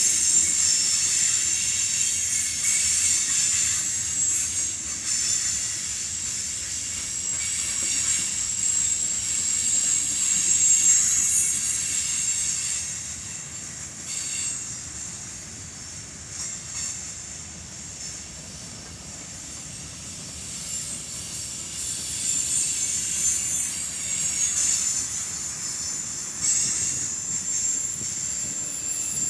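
Freight cars (covered hoppers and a tank car) rolling past on steel wheels, with a steady rumble and a high squeal from the wheels on the rail. Louder through the first part, quieter around the middle, then the squeal picks up again near the end.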